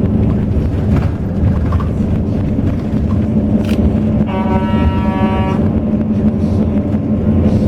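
Highway bus under way: steady low engine and road rumble. Midway through, a steady pitched tone sounds for a little over a second.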